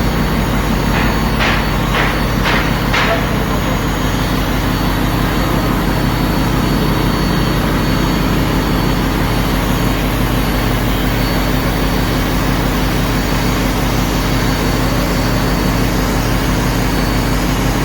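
Ship's engine-room machinery around a Sulzer 10RTA96C two-stroke marine diesel running steadily and loudly, with a low hum of several steady tones under a constant roar. About a second in, five short knocks come about half a second apart.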